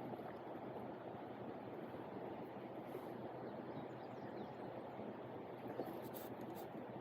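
Steady rush of a flowing river, with a few faint clicks about six seconds in.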